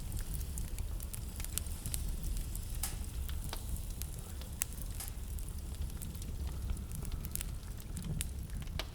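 Wood fire in a fireplace crackling, with irregular sharp pops, a few louder than the rest, over a low steady rumble.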